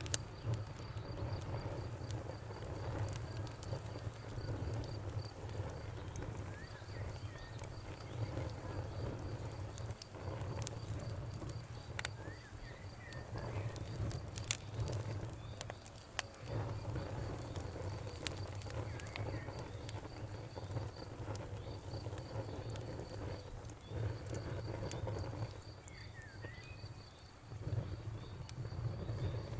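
Campfire wood burning with scattered sharp crackles and pops over a low steady rumble, while a cricket chirps in a continuous rapid pulsing trill and a bird gives a few short chirps.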